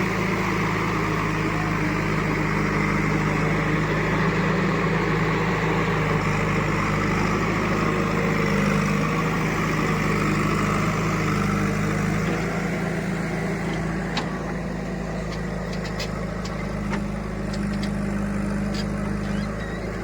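Diesel engine running steadily at an even speed, with a few light clicks in the second half.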